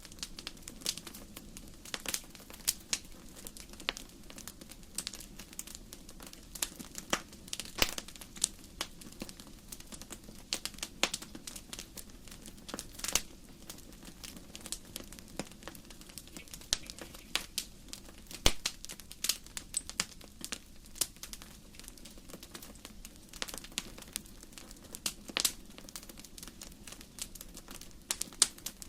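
Wood fire burning in a fireplace: logs crackling and popping with irregular sharp snaps, some louder than others, over a soft steady rumble of the flames.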